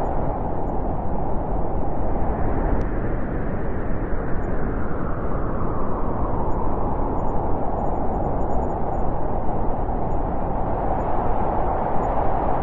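Steady wind blowing as a continuous rushing noise, easing a little around the middle and swelling again near the end.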